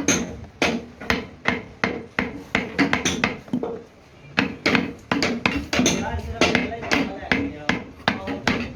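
Repeated hammer blows, about three a second, with a short break about four seconds in.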